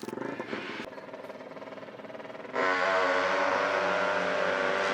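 An off-road racing engine running low, then about two and a half seconds in it jumps to a loud, steady high rev.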